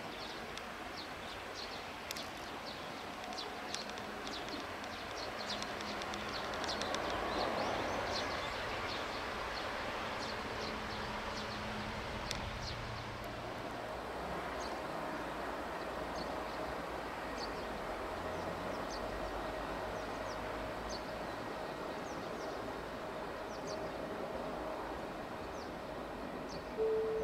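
EF64 electric locomotive hauling E493-series cars, its running noise swelling to a peak about seven or eight seconds in and then settling to a steady rumble. Short high chirps sound all through it.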